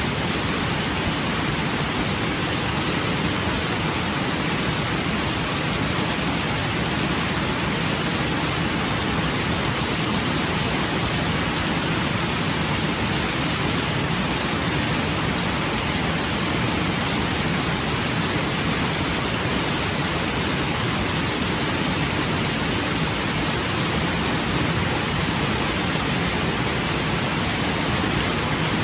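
Steady, heavy rain falling without let-up.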